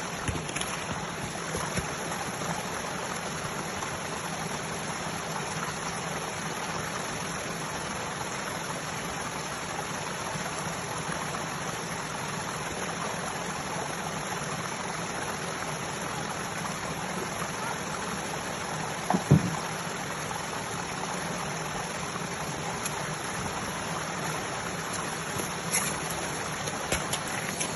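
Steady rush of flowing water, with one low thump about nineteen seconds in and a few light clicks near the end.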